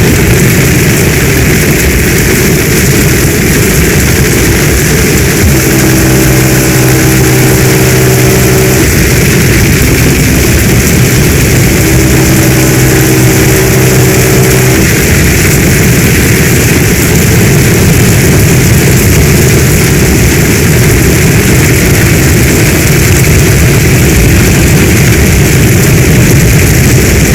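Heavy storm rain falling in a steady, loud, dense hiss. A low hum with several tones comes in twice over it, about six seconds in and again about twelve seconds in, each lasting a few seconds.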